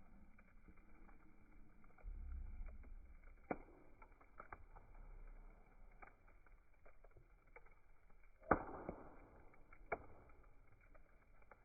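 Campfire crackling quietly, with a few sharp pops; the loudest comes about eight and a half seconds in. A faint low rumble sits underneath.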